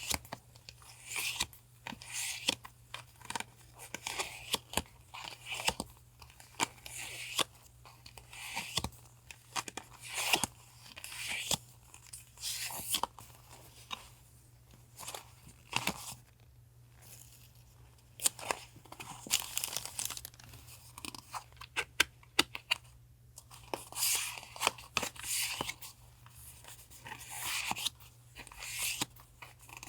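Packaging and paper being handled at close range: irregular crinkling, rustling and tearing sounds with sharp clicks and taps.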